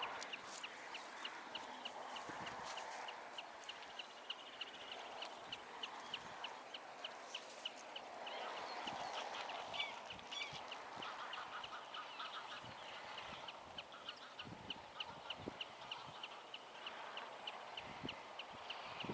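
Birds calling: one gives a short, high pip over and over, about three times a second, while other bird calls come and go, mostly in the middle.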